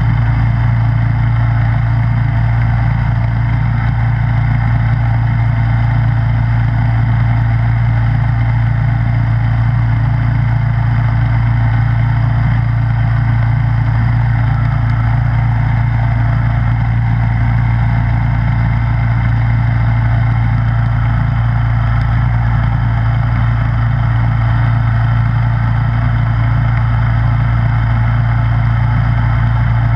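Snowblower engine running steadily at a constant speed, with an unchanging low drone.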